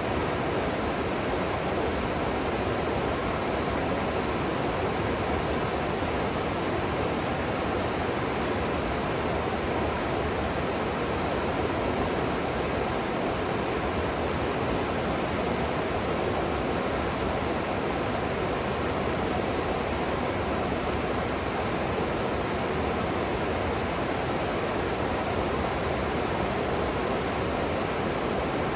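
River water rushing, a steady even roar of flowing current that holds without change.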